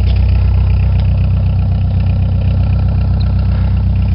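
The 1987 Ford Escort's Mazda diesel engine idling steadily just after a cold start, with the even diesel clatter that can pass for knocking.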